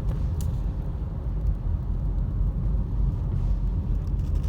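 A car driving, heard from inside the cabin: a steady low rumble of engine and tyres, with one light tick about half a second in.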